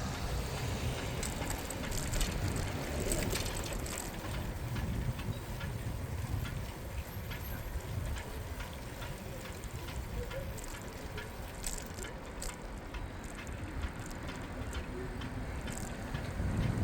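Bicycle ride noise on a city bike path: a steady low rumble with scattered short mechanical clicks and rattles from the bike, and a louder burst of clicks at the very end.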